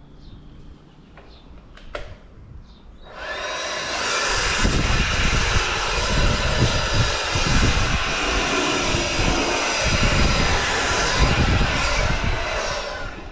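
A handheld electric router switches on about three seconds in and runs loud and steady with a high whine, cutting a moulded edge along a length of timber; it drops away just before the end.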